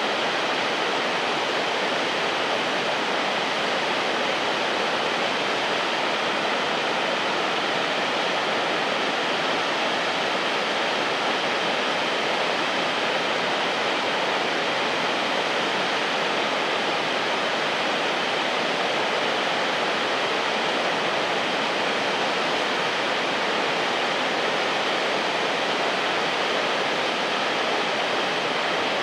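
Waterfall pouring steadily into a river: an even, unbroken rush of falling water.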